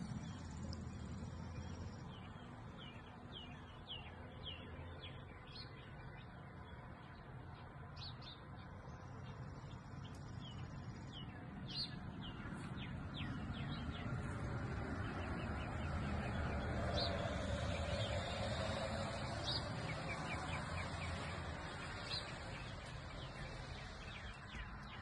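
Small songbirds chirping in quick short calls, many in the first half and a few later, over a low steady outdoor rumble.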